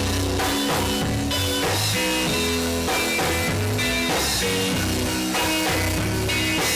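Live gospel band playing instrumentally between sung lines: electric guitar, bass and drum kit keeping a steady beat.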